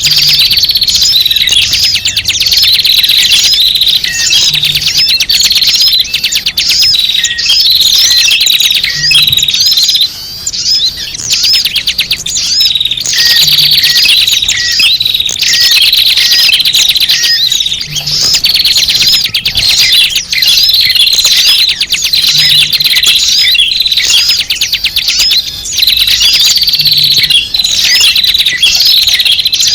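A dense chorus of small birds chirping and twittering rapidly and without pause, a bird-lure (pikat) recording made to draw in small birds. The busy pattern of calls repeats about every four seconds, as in a looped track.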